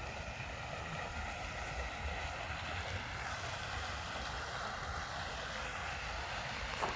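Steady outdoor background noise: a low rumble of wind on the microphone over a faint, even hiss.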